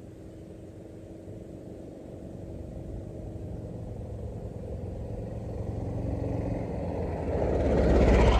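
A motor vehicle's engine running and growing steadily louder, loudest near the end, as it comes close.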